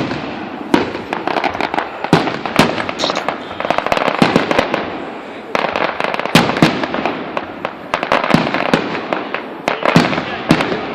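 Aerial fireworks going off in quick succession: sharp booms and crackling reports, several a second, without a break.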